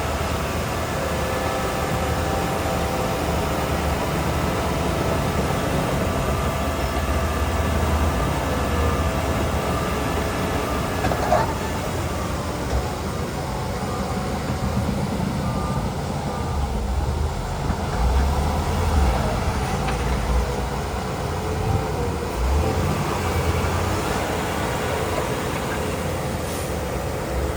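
Heavy diesel earthmoving machinery, a bulldozer and dump trucks, running at work: a steady low engine rumble that swells now and then. Several steady tones ride over it for the first ten seconds or so, and there is one sharp knock about eleven seconds in.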